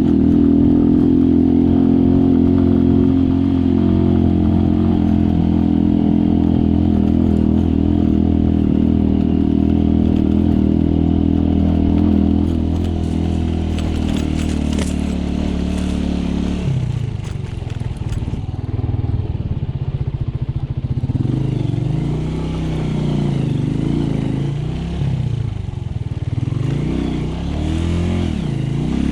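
Motorcycle engine running steadily under load, then about halfway through its note starts rising and falling again and again as the rider throttles on and off.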